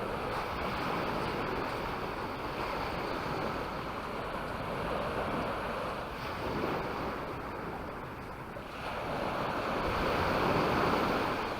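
Mediterranean surf washing onto the beach, a steady rush of small waves, with one louder wave breaking and running up the sand near the end.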